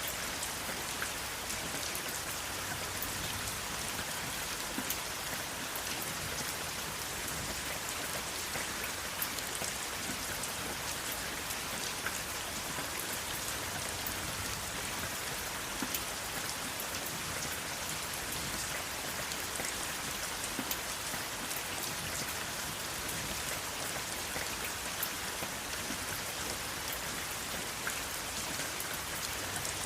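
Steady rain with many small, distinct drop ticks throughout, without thunder.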